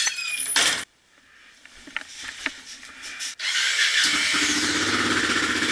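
A sectional garage door running on its rollers with a squeal, cut off abruptly under a second in, then a few light clicks. From about four seconds in, a Yamaha Ténéré motorcycle engine runs steadily.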